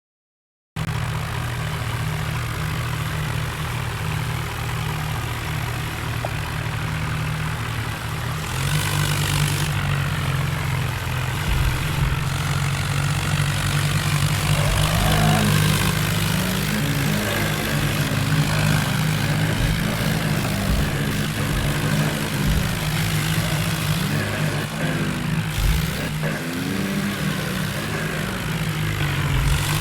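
John Deere tractor's diesel engine running steadily, getting louder about eight seconds in.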